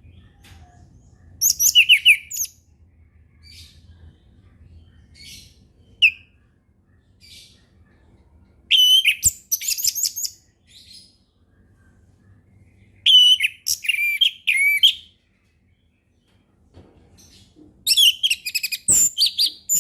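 Orange-headed thrush singing its full, open song: four loud phrases of quick, rich warbled notes, each one to two seconds long, separated by pauses that hold a few faint short single notes.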